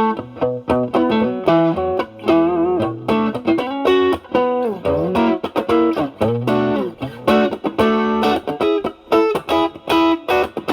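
Electric guitar (Fender Stratocaster with single-coil pickups) through an Ibanez Tube Screamer Mini overdrive pedal set to a low drive of about 1 to 2, into a Marshall Valvestate amp's clean channel: lightly driven single-note lead phrases with string bends and vibrato.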